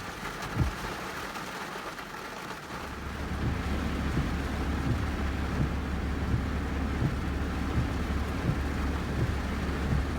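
Heavy rain hissing steadily. About two and a half seconds in, gusty wind starts buffeting the microphone, adding a loud low rumble with irregular thumps.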